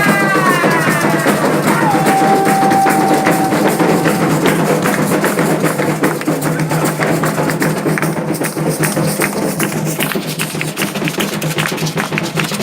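Candomblé ritual drumming: atabaque hand drums beating a fast, dense rhythm, with singing voices in the first second or so and one long held sung note a couple of seconds in.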